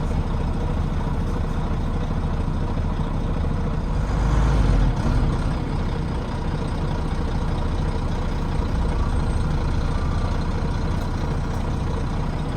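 Volvo D9B six-cylinder diesel engine of a Volvo B9TL double-decker bus running under the rear seats, with a steady deep drone. A louder low surge comes about four seconds in and lasts about a second.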